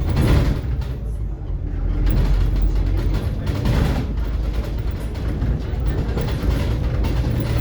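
Scania K360IB city bus under way, heard from inside the passenger cabin: a steady low engine and road drone, with a couple of short knocks from the body.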